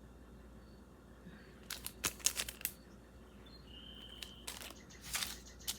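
Jewelry packaging being handled: two short bursts of crinkling and clicking, one about two seconds in and another near the end.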